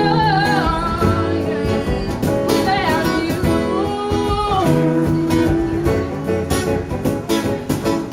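Live acoustic country music: acoustic guitar strumming with singing that slides between notes, over steady cajon hits that stand out in the second half.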